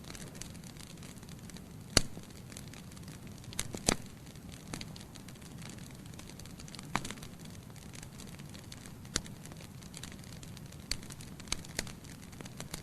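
Wood fire burning in a fireplace: a steady low rumble of flames with irregular sharp crackles and pops from the burning logs, the loudest pop about two seconds in.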